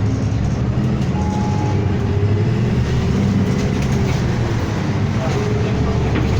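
Inside a city bus on the move: the engine's steady low drone with road and cabin noise.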